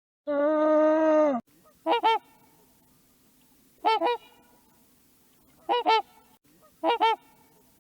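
A long drawn-out animal call, held for about a second, then a goose honking: four short two-note honks about one to two seconds apart.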